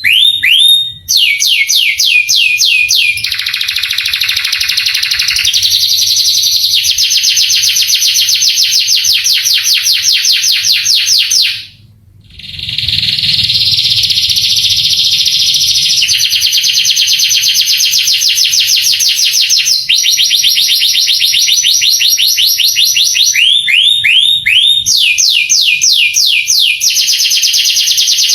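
Male canary singing a long, loud song of rapid trills. Each roll of fast repeated notes gives way to a different one every few seconds, some of them rising sweeps, with a brief break about twelve seconds in.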